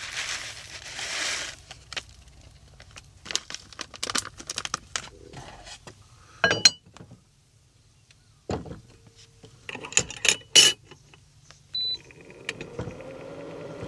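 Handling noises: a rustle of crinkling packaging, scattered clicks and a few bright metallic clinks of small metal objects, with a short high beep near the end followed by a steady hum.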